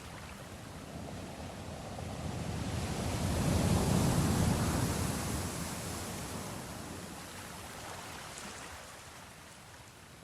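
Sea waves washing: one swell of surf builds to a peak about four seconds in, then slowly dies away.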